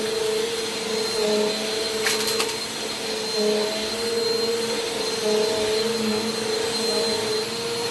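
Bissell PowerForce Compact Turbo upright vacuum cleaner running steadily, a motor hum with a high whine above it, its pitch dipping slightly now and then. A few quick clicks come about two seconds in.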